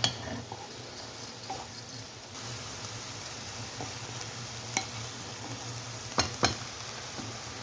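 Greens cooking in an open pan, a soft steady sizzle, with a spoon scraping and clinking against the pan several times: a cluster in the first two seconds, then sharp single taps, two of them close together near the end.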